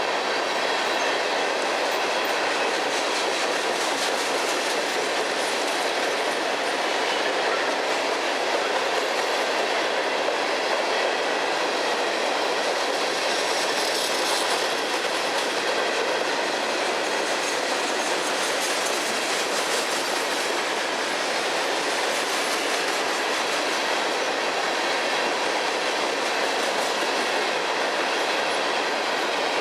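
Freight cars of a CSX train rolling past, a steady rumble of steel wheels on rail with clickety-clack over the rail joints.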